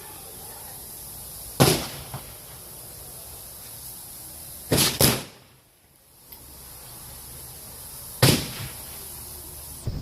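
Gunshots from blank-loaded guns in a staged shootout: a single shot about a second and a half in, two quick shots close together around the middle, and another shot near the end.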